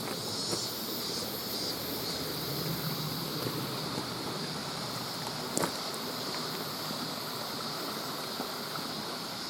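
Mountain stream water running steadily over rocks, with a single sharp click about halfway through.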